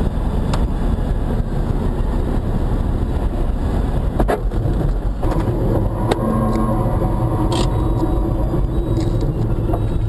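Steady engine and road noise of a moving car heard from inside the cabin, with a sharp click about four seconds in.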